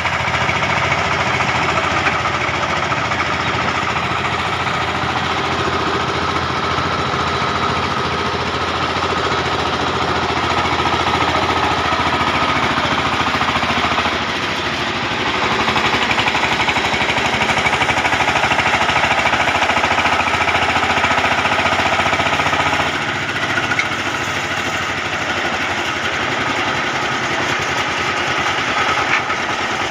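Single-cylinder diesel engine of a Cambodian two-wheel walking tractor (koyun) chugging hard with a fast, even knock, its note shifting twice partway through.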